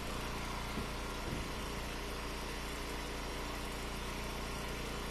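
Eastonmade firewood splitter's engine running steadily, with a couple of faint knocks about a second in.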